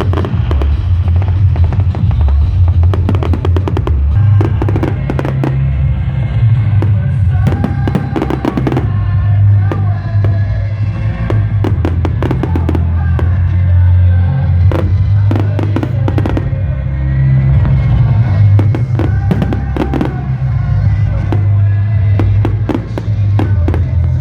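Fireworks going off in clusters of sharp bangs and crackles, over loud music with a heavy bass.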